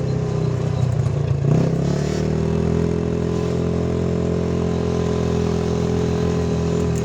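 Vehicle engine running steadily. About a second and a half in, its pitch dips and then settles at a steady speed, as at a gear change.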